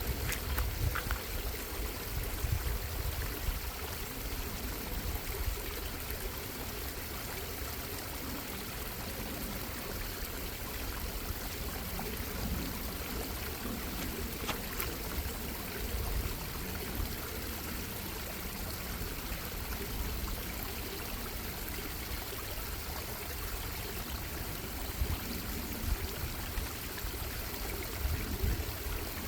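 Stream water bubbling and running steadily over rocks, an even rush with a low rumble beneath it.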